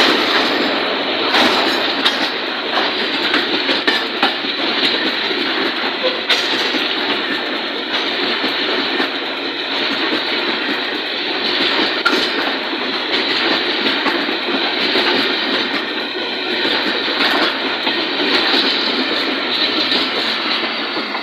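A train running past close by: a steady rolling noise of wheels on rail, with scattered clacks as the wheels cross rail joints.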